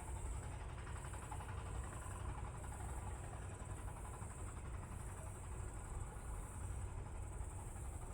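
Insects trilling steadily in a high, thin band that swells and dips about once a second, over a low, steady rumble.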